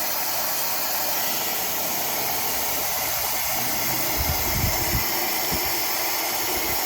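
Tymo Air Hype hair dryer running steadily, a constant rush of air. A few low thumps come about four to five seconds in.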